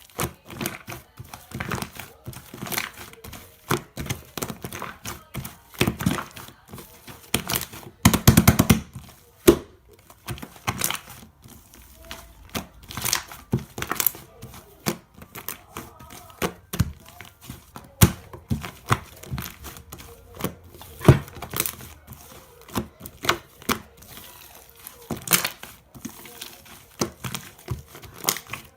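Irregular crinkling, crackling and clicking, with a burst of rapid rattling about eight seconds in.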